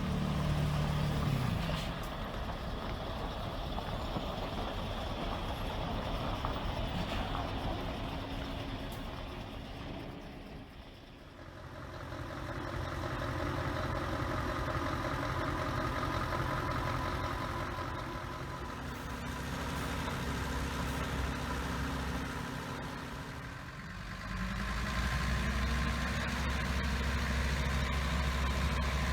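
Heavy diesel truck engine running at a steady idle. Its pitch drops about a second in, it fades briefly around a third of the way through, and it grows louder again near the end.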